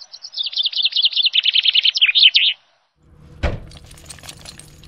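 Songbird song: a rapid run of chirps that steps down in pitch and ends in a short flourish after about two and a half seconds. After a brief gap, a single thump about three and a half seconds in, over a low steady hum and a few small clicks.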